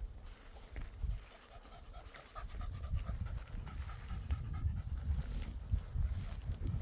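Rhythmic panting close to the microphone over the low rumble of walking. From about a third of the way in, a faint quick series of short repeated high notes.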